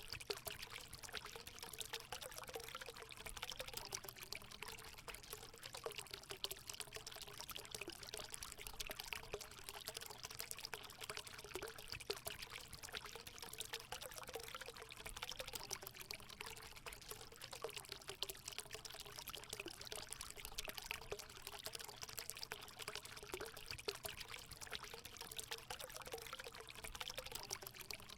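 Water pouring and trickling steadily into a hot spring pool, a continuous splashing with a faint gurgling tone.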